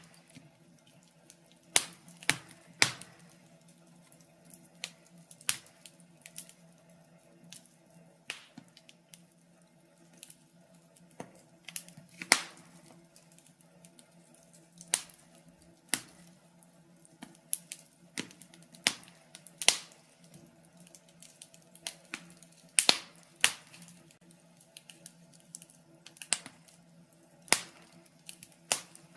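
Wood fire in a fireplace crackling: sharp, irregular pops about once a second over a faint steady hum.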